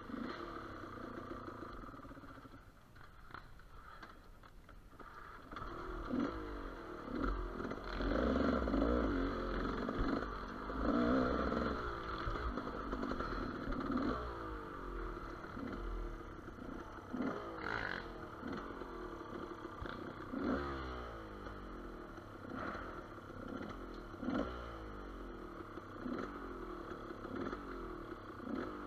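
GasGas EC200 two-stroke enduro motorcycle engine revving up and dropping back over and over in short surges of throttle, with quieter stretches between.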